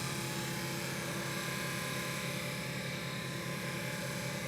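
A motor or engine running steadily at a constant pitch, giving an even, unchanging hum.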